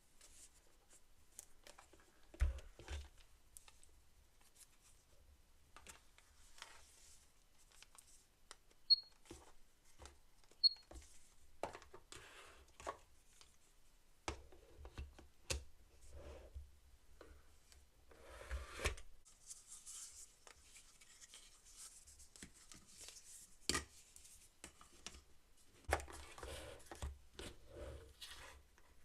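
Faint handling of toys and their packaging: scattered clicks and taps with short stretches of rustling and scraping, and a few sharper clicks.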